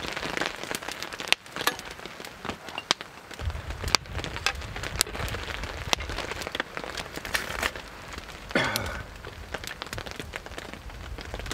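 Cold rain mixed with wet sleet falling steadily, with many sharp single drops striking. A low rumble joins about three and a half seconds in.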